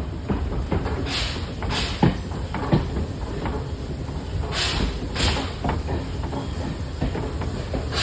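Steam-hauled railway carriage on the move behind the TKh tank locomotive: a steady rumble of wheels on the rails with scattered clunks, two sharper knocks about two seconds in, and pairs of short hissing bursts about every three and a half seconds.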